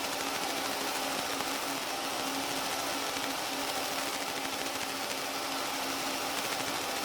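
Fiber laser engraver running: a steady buzzing hum over an even hiss.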